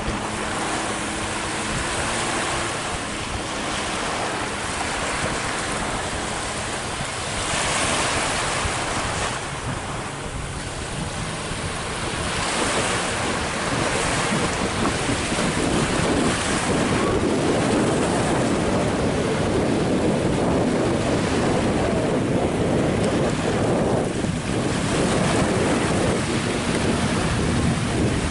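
Wind buffeting the microphone over waves and rushing water. The noise grows louder about halfway through.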